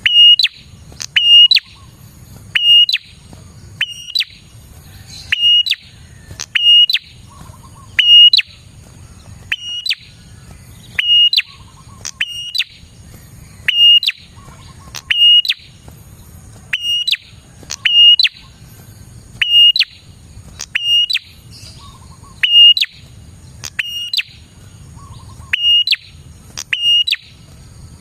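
Prenjak (prinia) calling vigorously: a loud, sharp chirp repeated about once every second and a half, some calls doubled. This is the kind of recording used as a lure call to attract wild prenjak.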